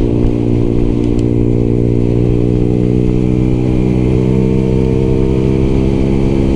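Engine of a 125 cc single-cylinder sport motorcycle running steadily while riding, the revs rising slightly about four seconds in, with wind rumble on the microphone.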